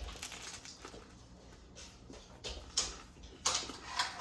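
A person biting into and chewing a sandwich on crusty French bread, with several short crunches, mostly in the second half.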